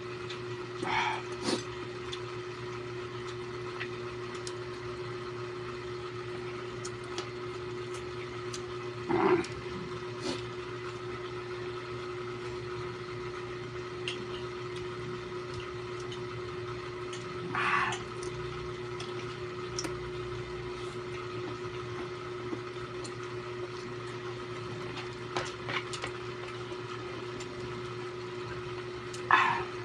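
Eating sounds of someone chewing pig's ear: a few short mouth sounds, spaced several seconds apart, over a steady background hum.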